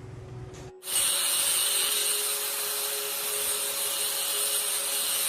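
A power tool starting abruptly about a second in and running steadily with a loud hiss and a faint steady hum.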